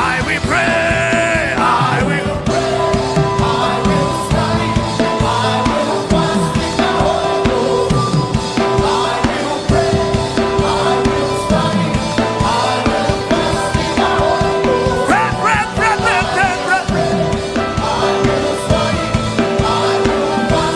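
Gospel worship music with a drum kit and a repeated held note in the middle register, with snatches of singing.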